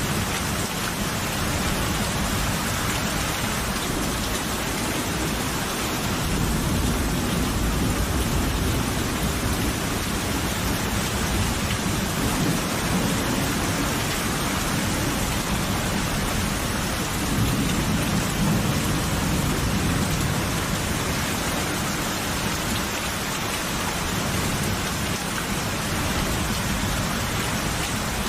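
Steady heavy rain with low rolling thunder, which swells twice: about six seconds in and again a little past halfway.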